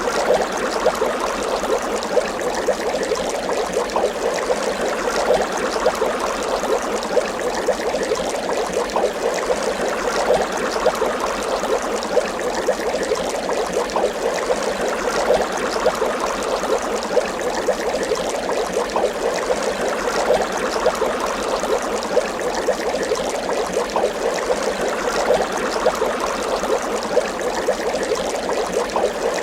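Water bubbling continuously, a steady dense run of small bubbles popping without pause or change.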